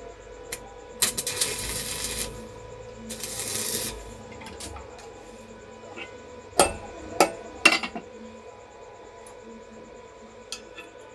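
Hand metalworking: two rasping scrapes on metal, each about a second long, then three sharp metallic knocks about half a second apart. A faint steady hum runs underneath.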